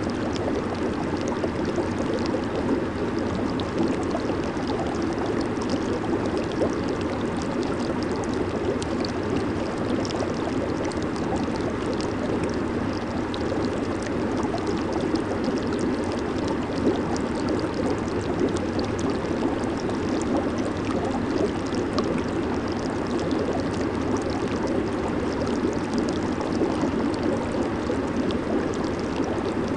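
Jacuzzi water churned by the jets and air bubbles: a steady bubbling rush with fine bubble pops over a low, even rumble.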